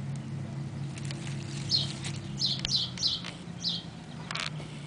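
A bird chirping in a quick series of short high notes, over a steady low hum.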